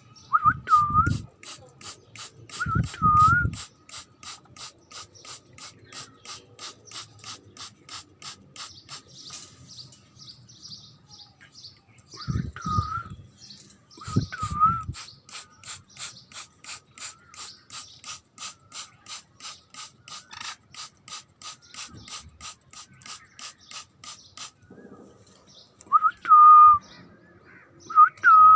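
Rapid, evenly spaced clicking that stops about four-fifths of the way through, and a young Alexandrine parrot giving short whistled calls several times, loudest near the end.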